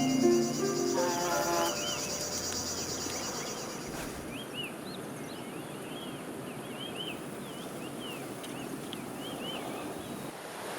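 Mountain-forest ambience with small birds giving many short, repeated chirps. A high, rapidly pulsing buzz runs through the first four seconds. A few notes of mallet-percussion music fade out at the start.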